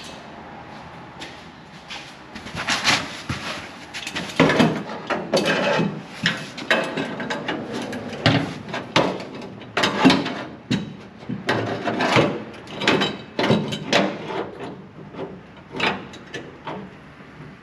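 Irregular clunks, rattles and scrapes of a large clamp being handled and fitted to clamp a car seat down onto its floor mounts, starting about two seconds in.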